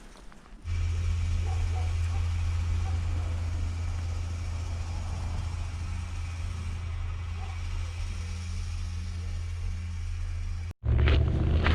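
Steady low hum of an idling engine, starting suddenly about a second in and cutting off abruptly near the end.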